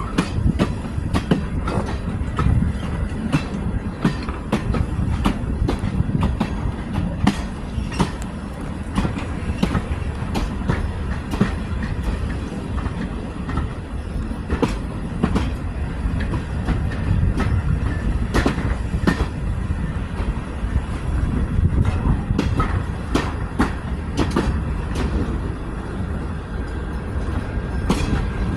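Heritage railway train running along the line: a steady low rumble of the wheels with frequent irregular clicks and knocks from the rail joints and rattling carriage.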